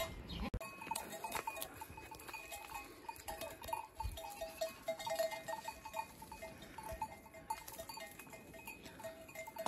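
A pen of nanny goats and young kids, with many short, faint calls repeating throughout and scattered knocks from their movement.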